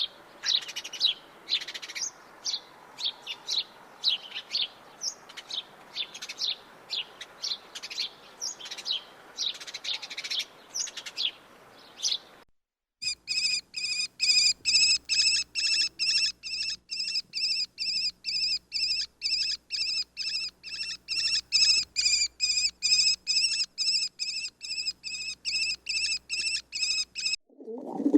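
Recorded small songbird calls: first a run of varied, high chirps, then, after a short break, a different bird giving a fast, very even series of repeated chirps, about three a second.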